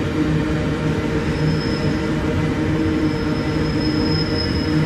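Empty iron-ore wagons of a long freight train rolling past: a steady rumble and rattle of steel wheels on the rails. A faint high wheel squeal comes in about a second in and again through the second half.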